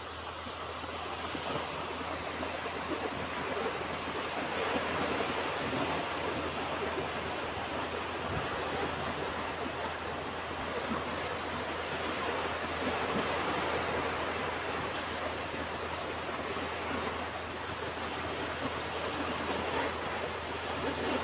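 Ocean surf washing onto a beach: a continuous wash of breaking waves that slowly swells and eases every several seconds.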